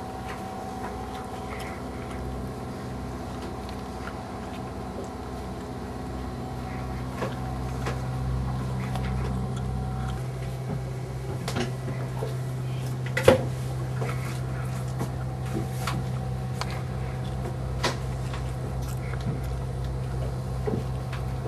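Steady low machinery hum aboard a yacht, growing a little louder about six to eight seconds in, with scattered knocks and clicks, the sharpest about thirteen seconds in.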